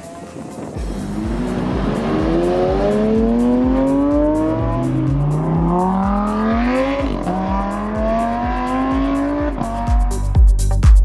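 Car engine accelerating hard, its pitch climbing and dropping back at two gear changes, then fading near the end. Music with a steady beat plays throughout and grows louder near the end.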